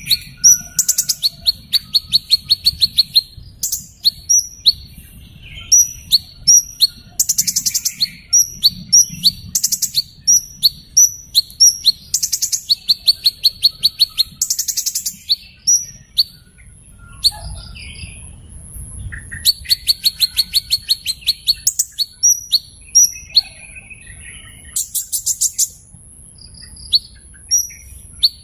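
A small bird chirping: sharp high-pitched chirps, some single and some in fast rattling runs of many chirps, with short pauses between bouts. A thin, steady high whine runs in the background from about halfway through.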